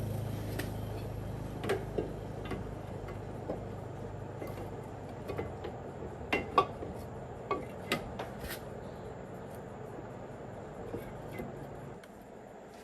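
Metal tools and parts clinking and tapping at irregular intervals, over a low steady hum that stops near the end.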